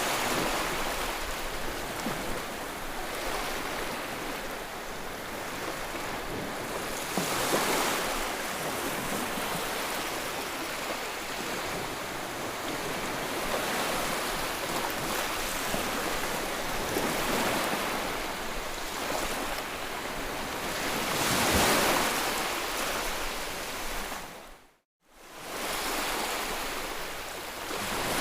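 White noise for soothing a baby: an even rushing hiss that swells and ebbs every few seconds, like surf. It cuts out for a moment near the end, then comes back.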